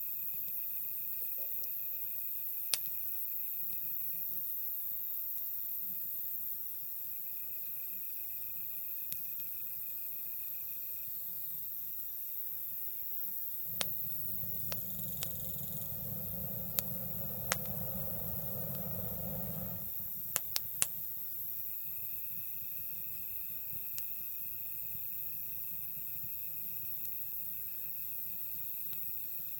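Wood campfire crackling, with sharp pops every few seconds over a steady hiss, and insects trilling on and off. A low rumble rises for several seconds midway.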